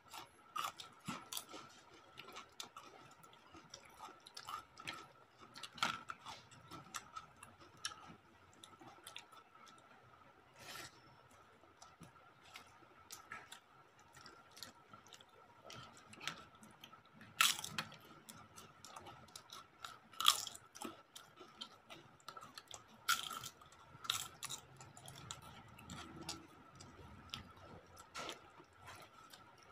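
Close-up eating sounds: chewing and scattered crunches of crisp papad, with a few louder crunches past the middle, over a faint steady high whine.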